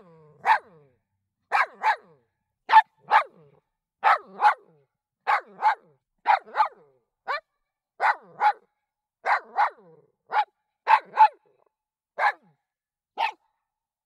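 A dog barking over and over, mostly in quick doubled barks about a third of a second apart, the pairs coming roughly once a second, with a few single barks near the end.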